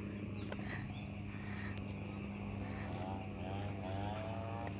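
Insect trilling steadily at a high pitch over a low steady hum, with a repeating warbling call joining in about three seconds in.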